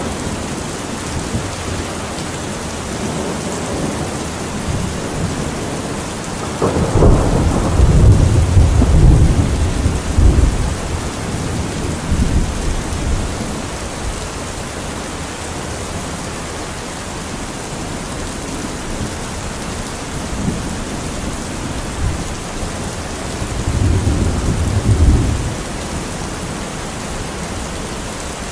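Heavy rain drumming steadily on a metal roof. Thunder breaks in suddenly about a quarter of the way through and rolls on for several seconds, and a second, shorter rumble comes near the end.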